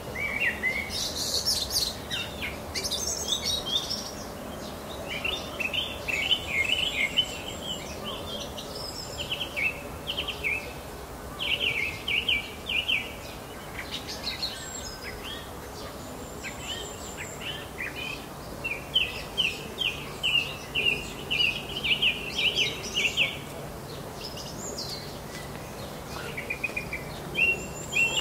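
Songbirds singing: bursts of quick repeated chirping notes, with now and then a thin, higher note, over a faint steady background noise.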